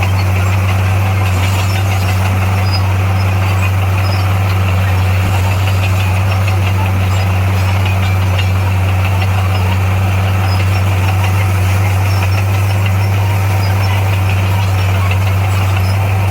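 Engine of heavy earthmoving machinery running steadily with a loud, unchanging low drone.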